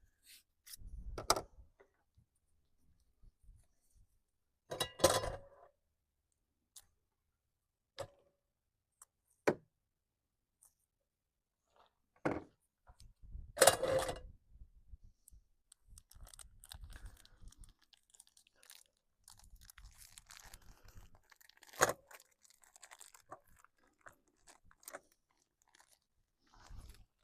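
Camp cooking gear being handled while searching for a knife: scattered knocks, clicks and rustles, with a few sharper knocks and a loud clatter about 14 seconds in, then quieter rustling.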